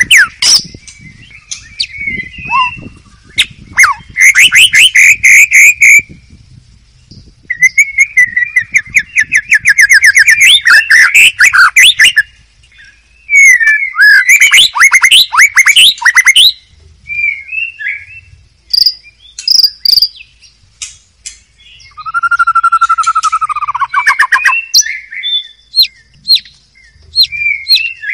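White-rumped shama singing loudly in separate phrases of rapid repeated notes and trills, with a lower, longer whistled phrase about three quarters of the way through and quick, sharp ticking notes near the end.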